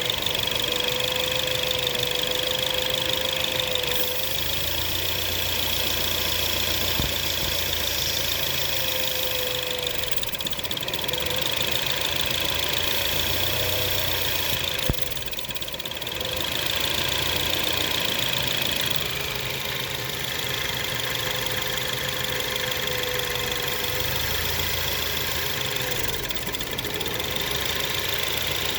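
2017 Ford Focus ST's turbocharged 2.0-litre four-cylinder idling steadily, with a steady high-pitched whine and a fainter wavering tone over the engine hum. The owner takes the noise for a possible vacuum leak.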